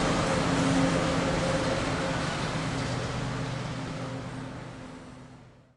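Diesel locomotive of a freight train running, a steady hum over broad rumbling noise, fading out to silence near the end.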